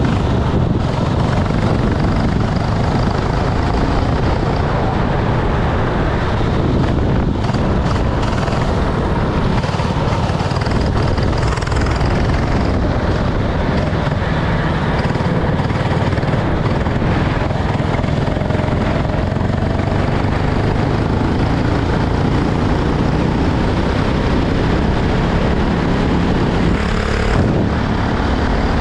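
Racing kart engine running under a dense, steady rush of noise, its pitch faintly rising and falling as it revs.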